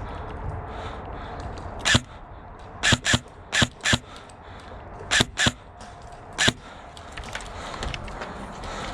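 Airsoft gun fired in eight sharp single shots, mostly in quick pairs, over about five seconds.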